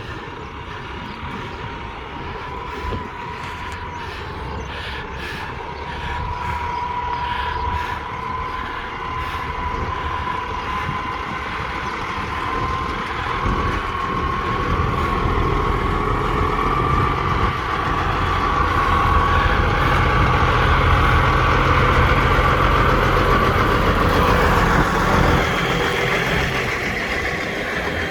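Wrecker tow truck's engine pulling away and gathering speed while towing a wrecked truck, with a steady whine that slowly rises in pitch. It grows louder over the first twenty seconds, then eases off slightly near the end.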